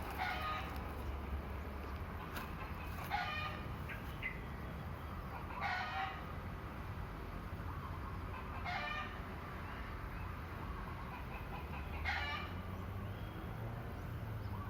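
Village chickens (ayam kampung) calling: five short calls, about one every three seconds, over a low steady hum.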